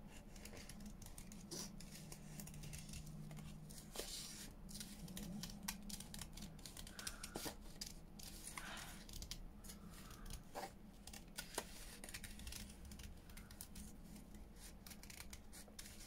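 Faint, irregular snips of small scissors cutting paper: fussy cutting a printed image out close around its outline.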